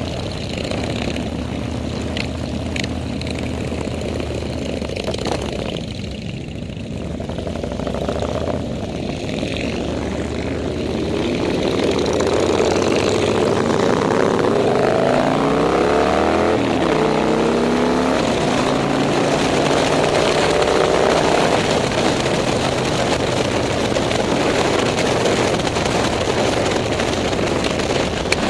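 Several motorcycle engines running together, growing louder about a third of the way in, with their pitches sweeping up and down across each other for several seconds in the middle.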